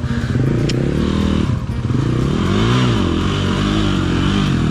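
Off-road dirt bike engine revving up and down in repeated bursts of throttle while working over rocky trail.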